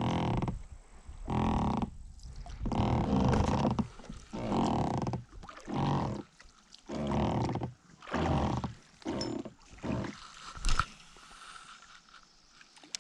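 Rowing boat's oars creaking in their oarlocks, a pitched groan with every stroke, about nine strokes at a steady rowing rhythm, with a single sharp knock near the end.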